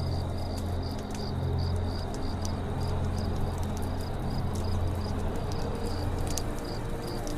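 Campfire crackling, with scattered sharp pops over a steady low rumble, while a cricket chirps in a regular, even rhythm a few times a second.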